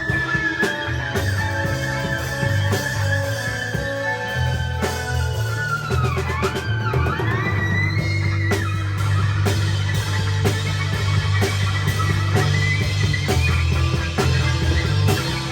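Live rock band playing an instrumental passage: electric guitar, bass and drums. A sustained high lead line glides in pitch, swooping down and back up about halfway through.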